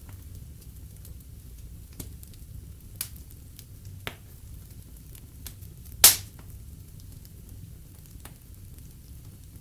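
Fire burning in a fireplace: a steady low rumble of flames with scattered sharp crackles and pops, the loudest pop about six seconds in.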